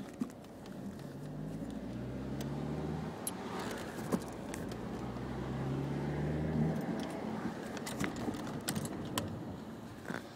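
Audi A4 2.0T FSI turbocharged four-cylinder engine revved up twice, its pitch rising each time, with the engine note dropping away about two-thirds through. Scattered light clicks sound over it.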